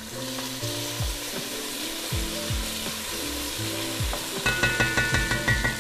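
Garlic and sun-dried tomato relish sizzling in hot oil in a pot while being stirred. Background music with a steady beat plays underneath.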